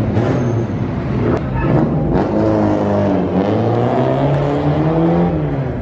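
A car engine revving loud, its pitch dipping and climbing again several times.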